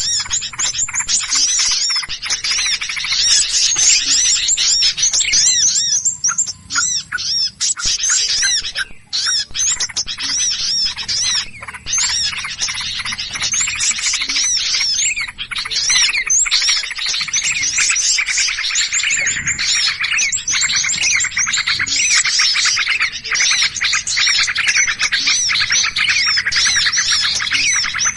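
A dense chorus of small birds chirping and squawking rapidly and agitatedly, calls overlapping without pause. It is the noisy ('ribut') alarm chorus used as a lure for small birds.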